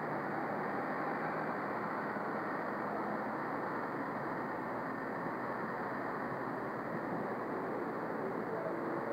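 Car engine idling at a standstill: a steady, hissy hum that stays even throughout.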